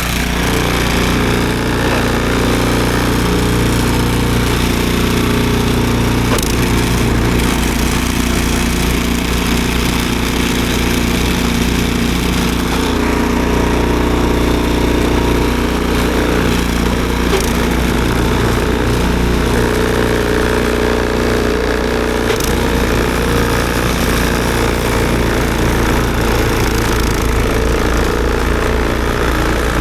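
Snowblower's small gasoline engine running steadily under load, its pitch shifting slightly a few times.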